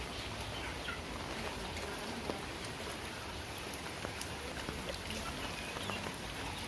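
Steady rain falling, an even hiss with scattered drop ticks. A few faint high chirps come through it.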